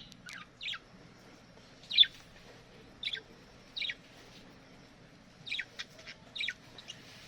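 Budgerigars chirping: about a dozen short, quick chirps that each drop in pitch, scattered irregularly, some in quick pairs.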